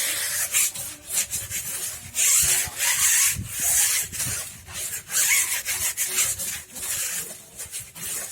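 A hand tool rasping against material in repeated, irregular strokes, a rough scraping sound with much hiss.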